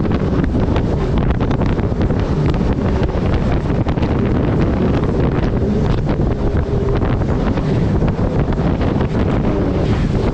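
Turbocharged Honda-powered mini jet boat running steadily through river rapids, its engine and rushing water heard under heavy wind buffeting on the microphone.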